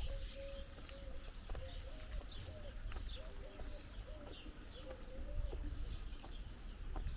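A dove cooing in a low, wavering series that fades out past the middle, over small birds chirping in quick, high, repeated notes throughout.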